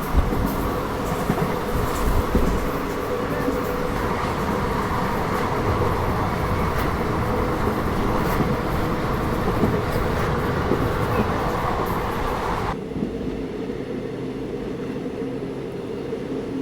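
Passenger train running along the rails: a steady rumble and rattle with a humming tone. About thirteen seconds in, the higher hiss cuts off suddenly and the sound turns duller while the rumble carries on.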